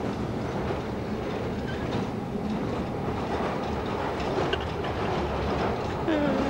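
Train carriage running along the track, heard from inside: steady rolling noise of the wheels on the rails. A person's voice sounds briefly near the end.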